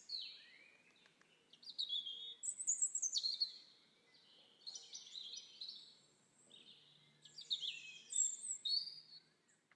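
Songbirds singing: high, quick warbling phrases that come in three or four bursts with short pauses between them.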